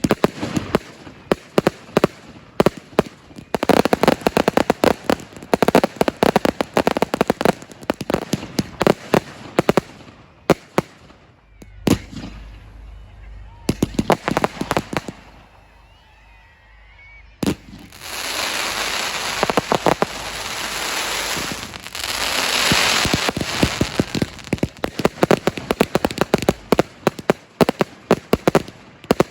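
Fireworks display: rapid bangs and crackles from aerial bursts, a short lull about halfway through, then a dense stretch of crackling followed by more bangs.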